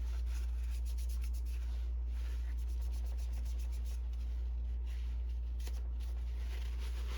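Quick, repeated rubbing strokes of an inkjet cartridge's print head wiped on a paper towel, testing whether the black ink will flow, over a steady low hum.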